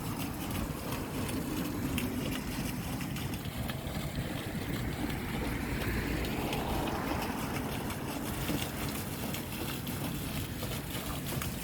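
Steady outdoor traffic noise, with a vehicle passing around the middle, its engine pitch rising and then falling away.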